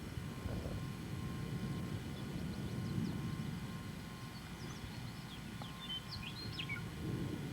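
Wind rumbling on the microphone, with a series of short, quick bird chirps in the second half.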